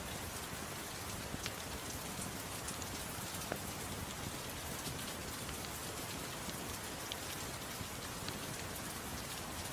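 Steady rain falling, an even hiss, with scattered sharp crackles and pops from a wood fire mixed in.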